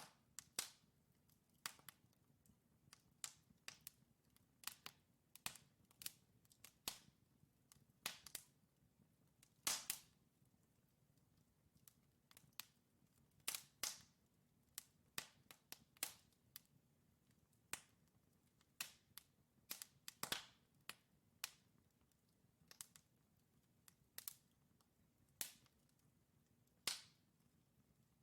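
Wood fire crackling in a fireplace: burning logs giving sharp, irregular pops and snaps over a faint low background, with a few louder cracks among them.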